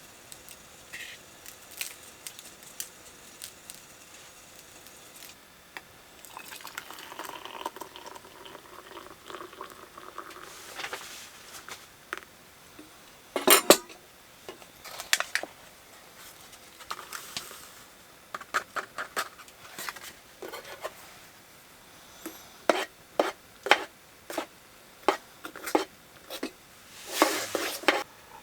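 Metal cookware and utensils clinking and knocking at irregular intervals, with the loudest knock about halfway through and a quicker run of clinks near the end.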